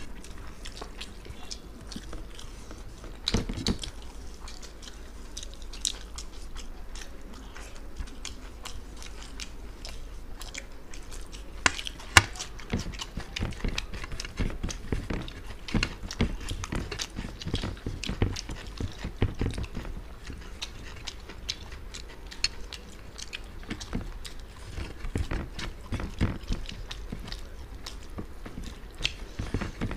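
Two people chewing and biting mutton biryani and chicken curry eaten by hand: a constant run of short mouth and chewing clicks, with one louder click about twelve seconds in.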